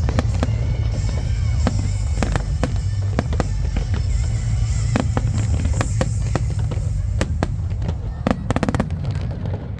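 Fireworks display: a steady low rumble of bursting shells with many sharp cracks, and a quick run of cracks a little before the end.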